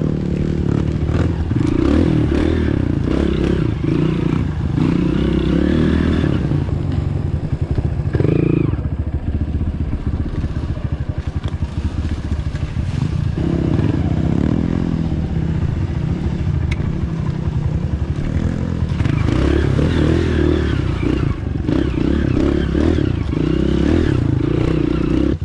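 Dirt bike engine running under load on a trail ride, its note rising and falling with the throttle, with some clattering.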